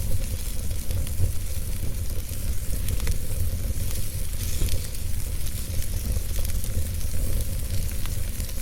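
Wood fire crackling, with scattered sharp pops and a steady hiss over a low rumble.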